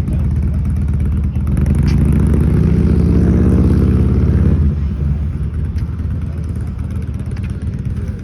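Boat engine running underway with a fast, throbbing exhaust note. It climbs in pitch for a couple of seconds, then eases back about four and a half seconds in.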